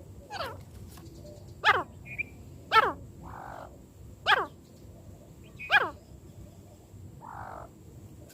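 A francolin (teetar) calling: five short, shrill calls, each falling in pitch, spaced about a second and a half apart, with fainter chirps in between.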